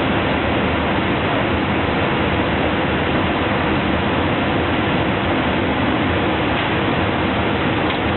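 Steady rushing noise on an Airbus airliner's flight deck in cruise, with no change and no distinct events.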